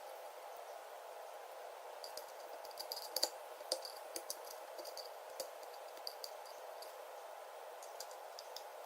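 Scattered light clicks and taps, a dozen or so, from about two seconds in to near the end, over a steady background hum.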